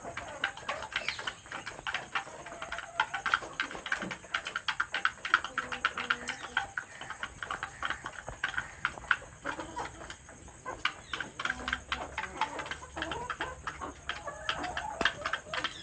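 Chickens clucking, over a dense, irregular run of small clicks and taps.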